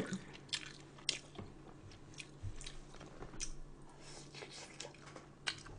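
A person chewing food close to the microphone: scattered small wet smacks and clicks, with a few light crunches.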